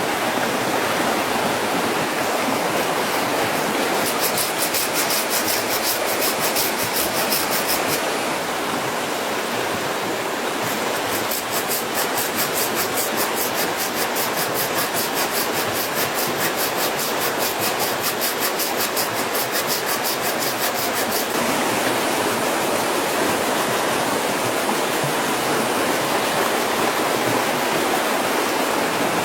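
Steady rush of running water. Over it, a fast, even, high-pitched rasping at about seven strokes a second comes in about four seconds in, stops, and returns from about eleven to twenty-one seconds in.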